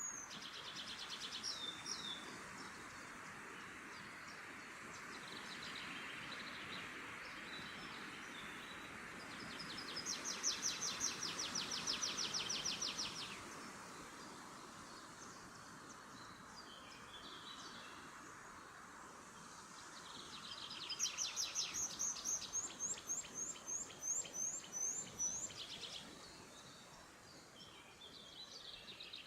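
Songbirds singing in a forest over a soft steady rushing background. Two longer songs of rapidly repeated high notes stand out, one about a third of the way in and another about two-thirds in, with shorter chirps between them.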